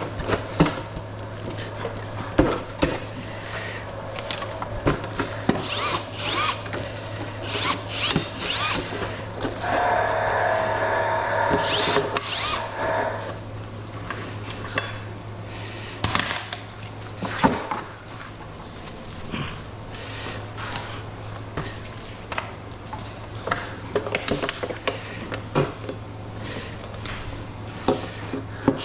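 Metal knocks, clatter and scraping of hand tools taking apart an air conditioner, with a power drill whirring for about three seconds some ten seconds in, over a steady low hum.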